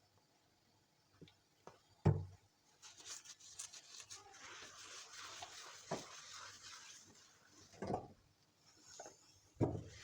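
Household handling sounds: four dull knocks, with several seconds of soft hissing noise in the middle.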